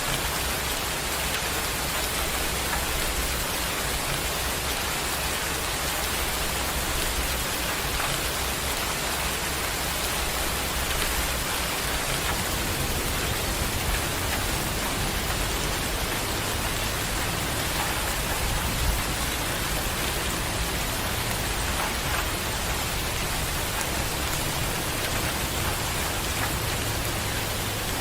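Steady, heavy rain falling as an even, unbroken hiss.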